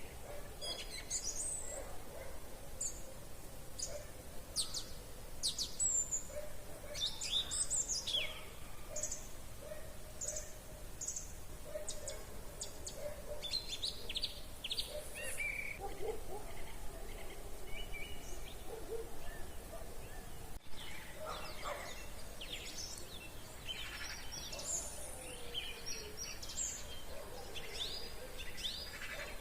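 Several songbirds singing at once: many short high chirps and trills overlapping, over a faint steady outdoor hiss.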